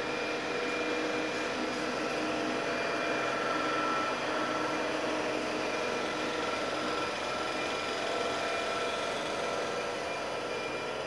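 TGV Lyria high-speed electric train running its equipment at the platform: a steady fan-like hum with several steady whining tones, swelling slightly a few seconds in.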